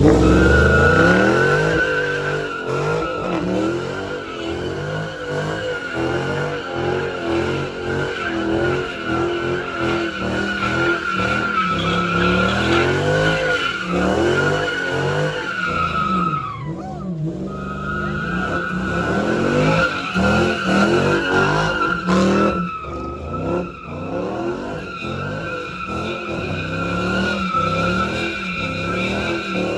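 A car spinning donuts: a long, loud tire squeal with the engine revving up and down underneath. About halfway through the squeal drops in pitch and breaks off for a moment, then starts again.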